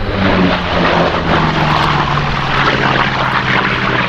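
Grumman F8F Bearcat's Pratt & Whitney R-2800 radial engine and propeller at display power in a fly-by, the engine note falling steadily in pitch as it passes.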